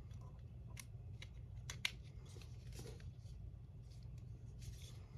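Faint scattered clicks and short rustles of small plastic model-kit parts being handled, with one sharper click a little under two seconds in, over a steady low hum.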